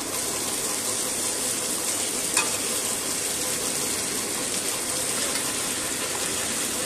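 Raw chicken pieces frying in hot oil with sautéed ginger-garlic paste and onions in a pressure-cooker pot, a steady sizzle. There is a single light tap about two and a half seconds in.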